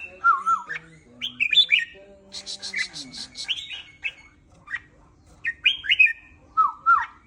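Young red-whiskered bulbul singing in short whistled phrases that glide up and down, mixed with chirps and a quick rattling trill about two and a half seconds in.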